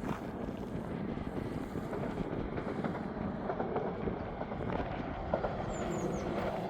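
Steady rumbling noise of a passing vehicle, swelling a little after the middle, with a few brief high chirps near the end.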